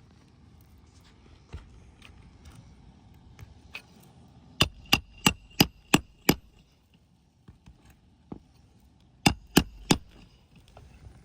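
Shingle hammer driving roofing nails into an asphalt shingle: a run of six sharp blows about three a second near the middle, then three more near the end, each with a brief metallic ring.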